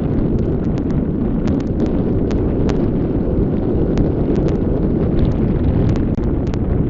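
Strong wind buffeting the nest webcam's microphone: a loud, steady low rumble, broken by many scattered sharp clicks and crackles.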